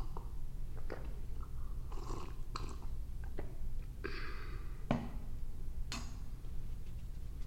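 Close-miked ASMR handling sounds: scattered soft clicks and crackles over a low steady hum, with a short hiss about four seconds in.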